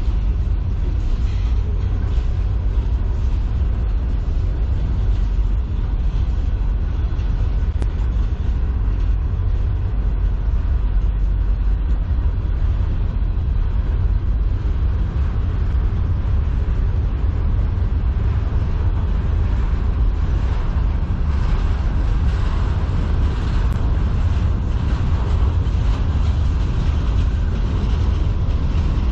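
Freight train cars, a string of hopper cars, rolling past with a steady rumble of steel wheels on the rails.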